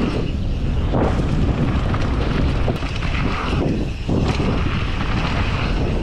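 Wind buffeting the microphone of a mountain bike rider on a downhill run, with a steady low rumble and brief surges.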